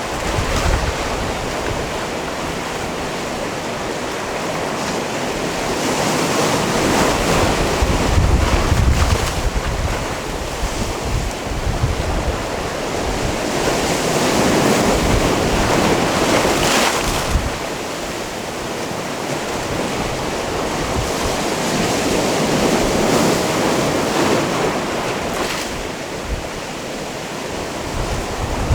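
Sea waves breaking and washing onto a stony cove shore, the surf swelling and easing about every eight seconds. Gusts of wind rumble on the microphone.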